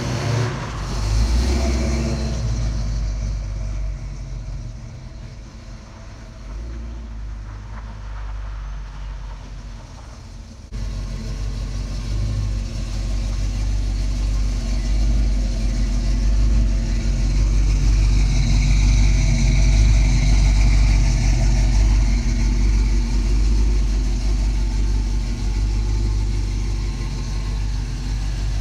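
Chevrolet Chevelle SS 454's big-block V8 passing close by, loudest about a second in and then fading. After a sudden change about ten seconds in, it runs steadily, apparently idling while parked.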